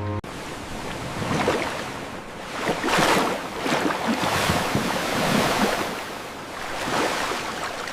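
Ocean waves washing in, the surf swelling and falling back several times with no music over it.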